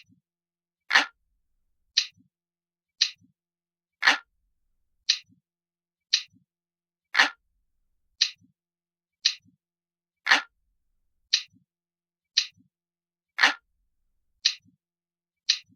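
Clock-ticking sound effect: steady ticks about once a second, every third tick louder and fuller.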